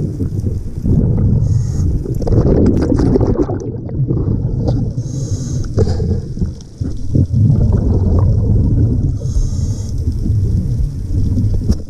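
Underwater noise of moving water and bubbles: a dense, continuous rumble with uneven surges, and a short hiss every four seconds or so.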